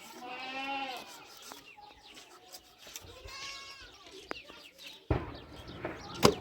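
A goat bleating twice, each call a wavering cry of under a second. Then a sudden thump about five seconds in, and a sharp knock near the end.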